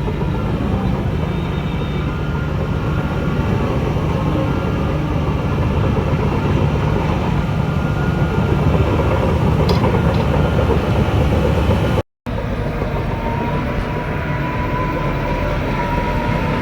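Shantui DH17 bulldozer working: loud, steady diesel engine and machinery noise, cut off abruptly for a moment about twelve seconds in.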